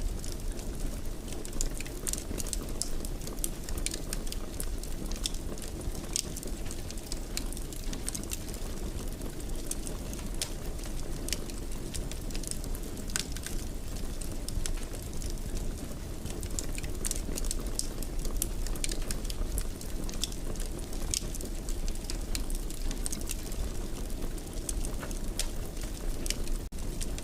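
Wood fire in a fireplace crackling, with a steady low rumble under frequent small irregular pops and snaps.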